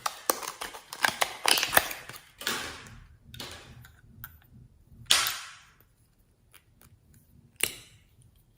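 Slime being worked by hand, giving a quick run of sharp pops and clicks in the first two seconds, then a few single, softer squelching pops.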